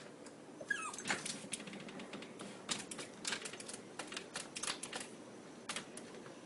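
A dog gives a short whine about a second in, among many light, irregular clicks and taps.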